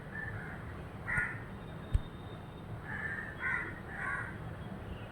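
Harsh, cawing bird calls, about five short calls spaced irregularly, with a sharp click about two seconds in.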